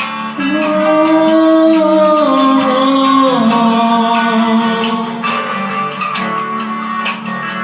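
A sung voice holds one long wordless note that slides down in pitch over guitar chords, then fades after about five seconds, leaving the guitar playing on alone.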